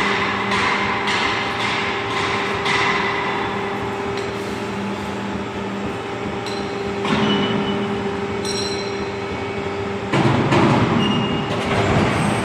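Hydraulic profile bending machine running: a steady hum from its hydraulic power unit with light repeated knocks, growing louder and rougher about ten seconds in.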